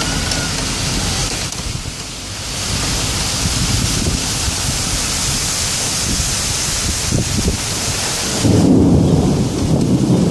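Heavy rain falling steadily in a severe thunderstorm, with thunder rumbling low underneath; a louder rumble of thunder sets in near the end.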